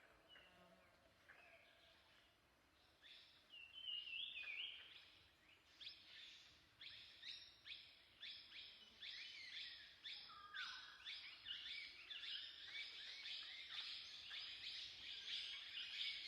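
Birds chirping outdoors, faint: many short, quick calls that grow busier and more continuous from about three seconds in.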